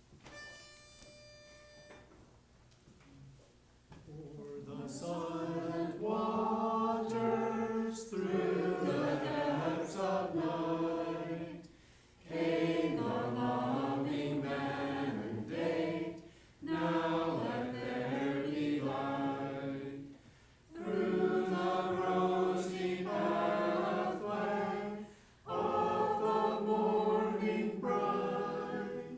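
Congregation singing a hymn together, line by line with short breaks for breath between phrases. A brief steady tone sounds about a second in, before the singing starts.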